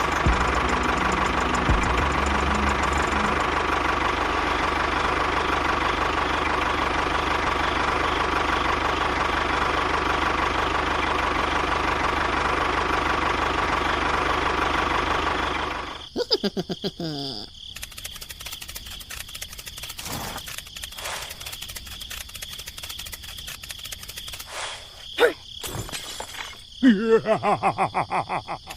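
Steady engine-like running noise from a toy vehicle, which cuts off suddenly after about sixteen seconds. Quieter knocks follow, with a few short falling-pitch sounds and a rapid pulsing sound near the end.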